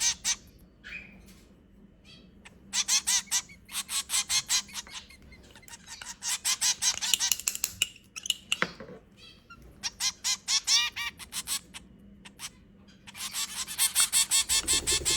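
Hand-raised baby birds calling in fast, repeated high chirps, in four bursts with short quiet gaps between.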